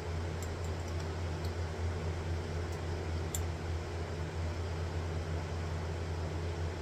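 A steady low motor hum over a faint even hiss, with a few light, faint clicks in the first half.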